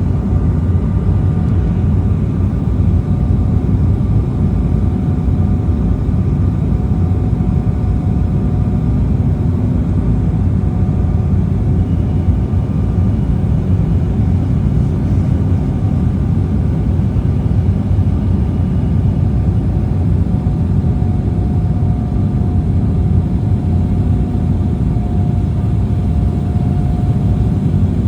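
Cabin noise of an Embraer E190 airliner in flight: the steady low rumble of its jet engines and airflow, heard from inside the passenger cabin, with a faint steady whine above it.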